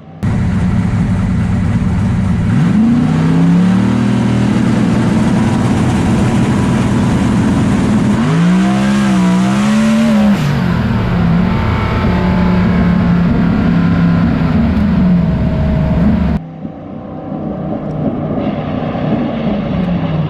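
Turbocharged drag race car making a pass down the strip, its engine running hard at high revs. The sound cuts in abruptly and drops off suddenly about sixteen seconds in to a quieter engine sound.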